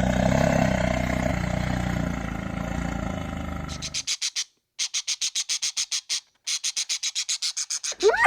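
The tail of a big cat's deep roar fades away as a low rumble. It is followed by a quick, even run of high-pitched chirps, several a second, in three bursts with short silent gaps between them.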